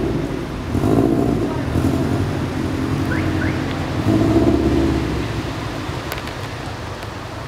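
Tuned, turbocharged flat-four boxer engine of a Subaru Impreza WRX STI revving hard as the car spins donuts. It surges about a second in and again about four seconds in, then eases off near the end.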